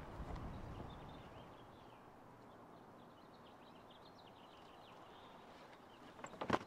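Faint outdoor ambience with small birds chirping in the background. There is a low rumble in the first second and a brief cluster of sharp knocks near the end.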